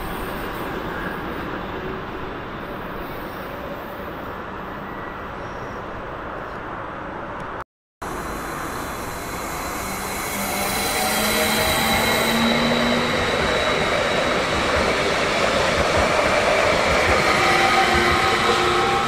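Train noise at a railway station, a steady rumble; after a brief cut about eight seconds in, a louder train sound builds with faint high squealing tones.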